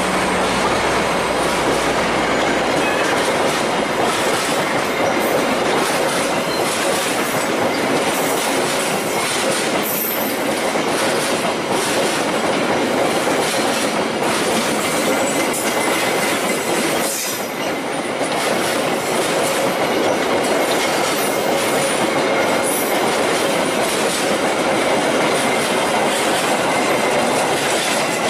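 A passenger train passing close by at speed: a steady, loud rush of wheels on rail with a clickety-clack over the rail joints. The sound dips briefly about two-thirds of the way through, then carries on.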